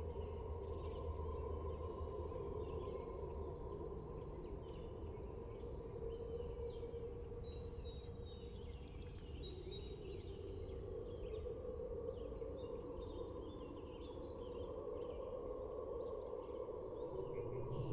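Faint ambience: a steady low hum with scattered bird chirps over it. A deep rumble begins to swell at the very end.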